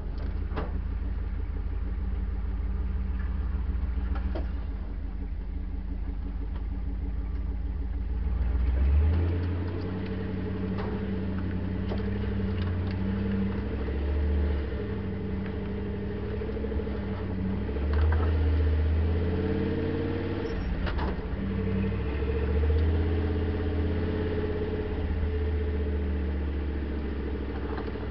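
Land Rover engine running as it drives slowly along a rough dirt track, the revs rising and falling several times with throttle and gear changes. A few short knocks from the vehicle over bumps.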